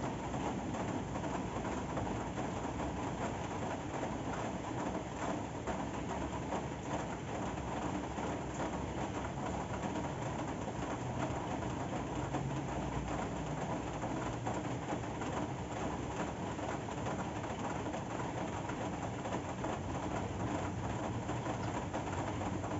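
Steady rain falling, an even unbroken hiss with a low rumble beneath it.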